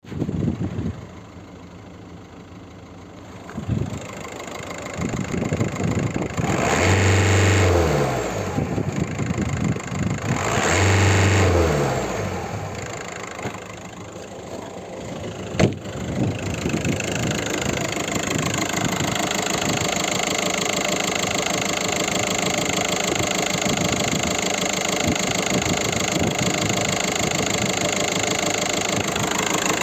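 VW Golf 5's 1.9 TDI diesel four-cylinder engine running, revved twice about 7 and 11 seconds in, the pitch rising and falling back to idle each time. After a sharp click about 16 seconds in, it idles steadily, heard up close under the open bonnet.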